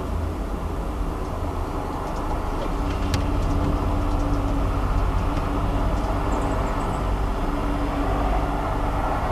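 Unexplained low, steady droning hum over city rumble, picked up on a mobile phone held out of a window. It swells slightly about two seconds in.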